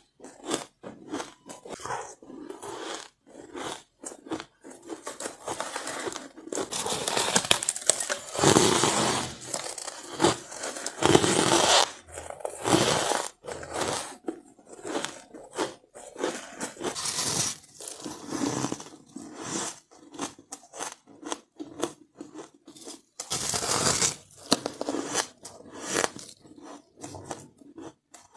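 Close-miked bites and crunching of frozen white ice: a run of crisp, crackling crunches, densest through the middle and again near the end.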